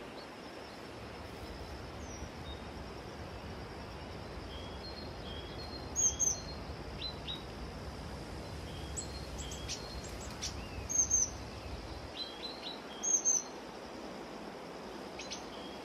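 Birds chirping outdoors: scattered short high chirps and quick slurred notes, several voices, over a steady background hiss with a faint steady high tone. A low rumble under it drops away about three-quarters of the way through.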